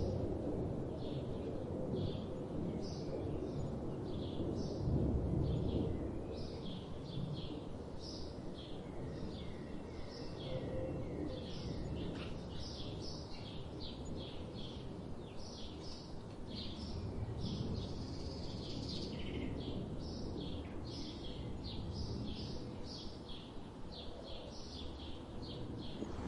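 Songbirds chirping, many short chirps several a second throughout, over a steady low background rumble.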